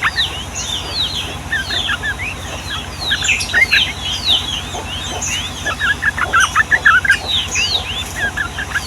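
Sooty-headed bulbuls in a long, busy chatter: a continuous run of quick down-slurred whistled notes, overlapping so densely that several birds seem to be calling at once, over a low steady hum.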